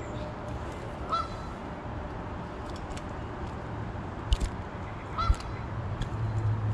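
A bird calling twice, short rising notes about four seconds apart, over a steady outdoor noise bed. Two sharp clicks a second apart are the loudest sounds, and a low hum swells near the end.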